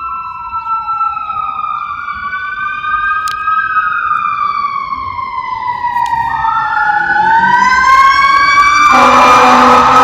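Fire truck sirens wailing, two overlapping tones slowly rising and falling and growing louder as the apparatus approaches. About nine seconds in, a loud, steady horn blast starts over them.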